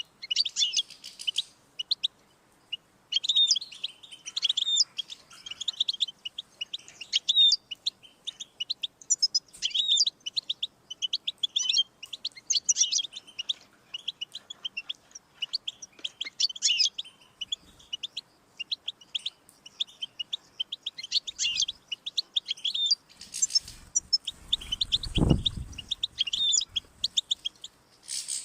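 European goldfinch singing: rapid, tinkling twittering phrases that follow one another with short pauses. Near the end there is a brief low rumble.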